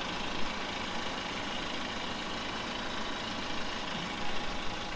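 Small tractor engine idling steadily.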